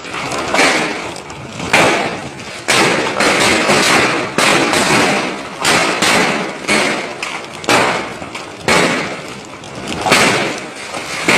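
Large hailstones pelting down in a heavy hailstorm: a dense clatter of impacts, with louder thuds of big stones striking hard surfaces about once a second.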